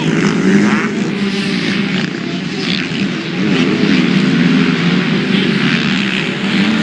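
Motocross dirt bike engines running on the track. Their pitch rises and falls as the riders work the throttle.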